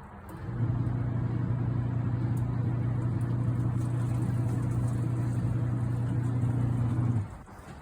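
Mini portable washing machine's wash motor running during its wash cycle: a steady low hum that starts about half a second in and cuts off near the end.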